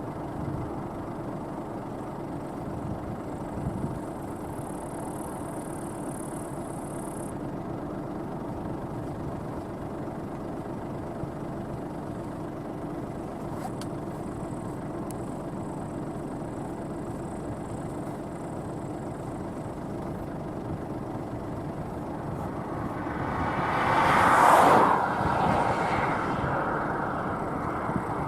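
New Holland CX8.90 combine harvester running steadily at work harvesting barley, a continuous machine drone. Near the end it grows louder to a peak and then falls back a little.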